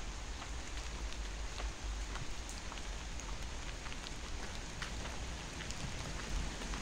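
Rain falling steadily, with many separate sharp drop ticks scattered through it.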